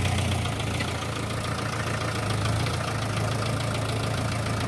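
Engine of an off-road 4x4 running steadily at a low, even drone, with no revving.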